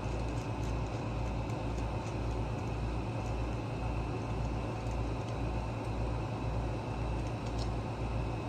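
A steady low mechanical hum that pulses about twice a second, with a few faint light clicks of small parts being handled.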